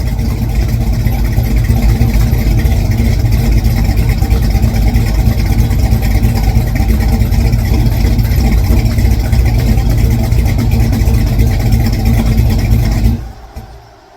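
Car engine running steadily and loudly, then shut off about 13 seconds in, dying away quickly.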